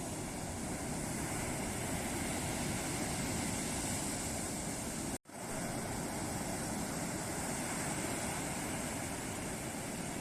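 Ocean surf rushing steadily as waves break and wash up the beach. About five seconds in, the sound cuts out for an instant and comes straight back.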